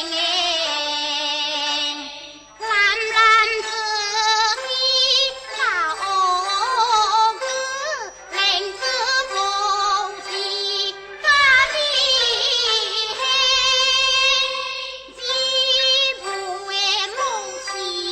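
Teochew opera singing: a high voice singing in phrases with heavy vibrato and pitch slides, over traditional instrumental accompaniment.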